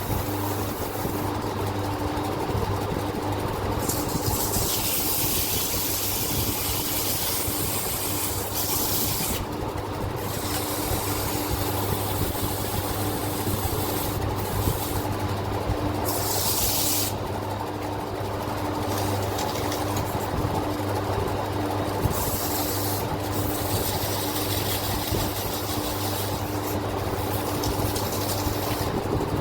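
Sandpaper rubbing over a piston by hand, in spells of hissing scrubbing a second to several seconds long, over a steady machine hum.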